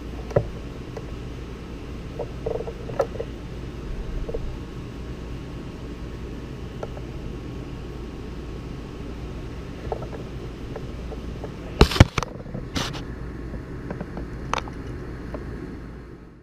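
Steady low hum of a workshop with scattered light clicks and knocks of parts being handled; the loudest is a sharp pair of knocks about twelve seconds in. The hum cuts off suddenly at the very end.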